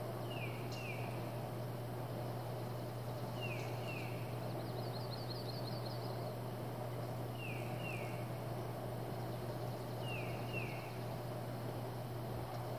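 A bird calling outdoors: two quick falling whistled notes, repeated about every three seconds, with a brief rapid trill from a bird a little past the middle. Underneath runs a steady outdoor noise and a constant low hum.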